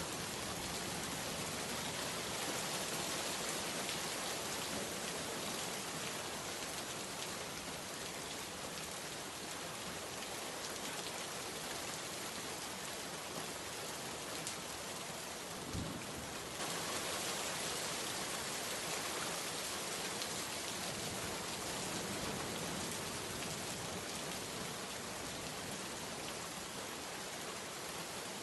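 Steady heavy rain falling and pattering on surfaces. A single low thump comes about halfway through, and the rain turns slightly louder just after.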